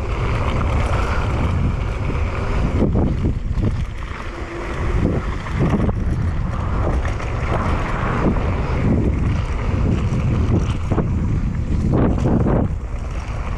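Wind buffeting the microphone of a camera on a downhill mountain bike, over the rumble of tyres on a dirt trail. Scattered knocks and rattles come from the bike going over bumps.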